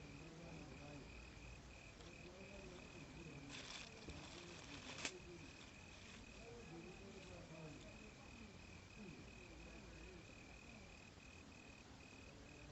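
Faint, steady, evenly pulsed high chirping of an insect, with a brief crackle ending in a sharp click about four to five seconds in.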